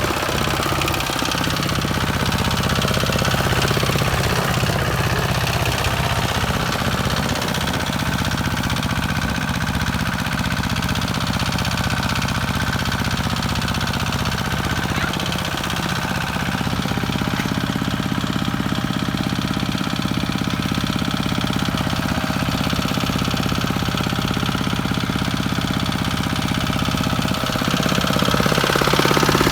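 Kubota walking tractor's single-cylinder diesel engine running steadily, a little louder near the end.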